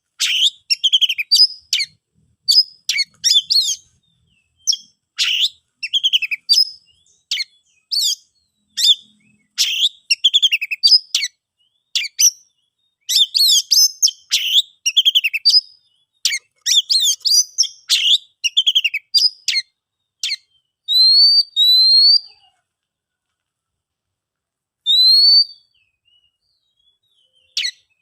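Oriental magpie-robin singing: quick bursts of varied, rapidly changing whistled notes separated by short breaks, then near the end a few clear, rising single whistles with pauses between them.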